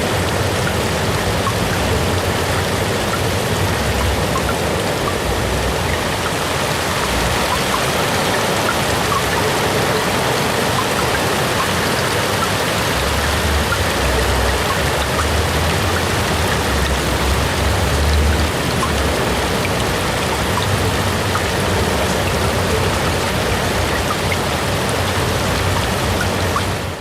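AI-generated rain ambience: steady, heavy rainfall as a dense hiss with scattered drop ticks. A low rumble swells in the middle and then eases.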